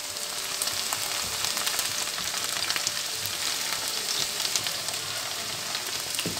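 Okra sizzling steadily as it shallow-fries in oil in a nonstick wok, lightly golden, while a silicone spatula stirs and scoops pieces out with small scraping ticks.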